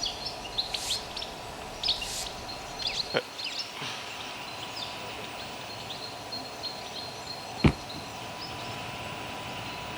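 A climbing brush scrubbing rock holds in short, scratchy strokes through the first few seconds. A sharp knock comes about two-thirds of the way through, over an otherwise steady outdoor background.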